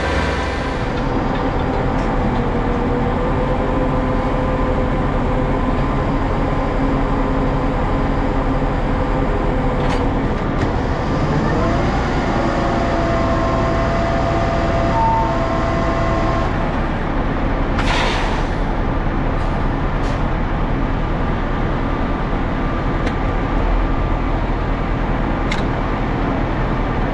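Winch truck's diesel engine and road noise heard from inside the cab while driving, steady throughout, with a short hiss about eighteen seconds in.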